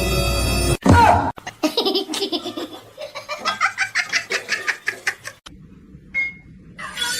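Music stops abruptly, then a person laughs hard in rapid repeated bursts for about four seconds; music starts again near the end.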